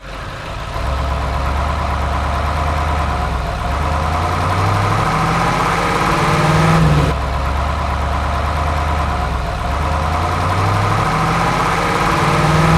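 A vehicle engine running and climbing in pitch in a few steps, like revving through gears. About halfway through it drops back and repeats the same rise.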